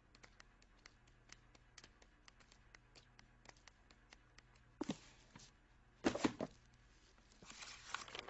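Soft cartoon sound effects: a quick run of light clicking taps, then a few short rustling swishes near the end.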